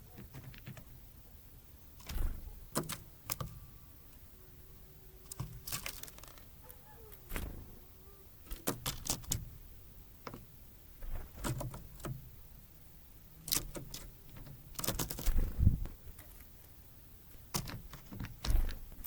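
Irregular sharp clicks and knocks, some in quick clusters, from tits pecking seed and landing on a bird feeder.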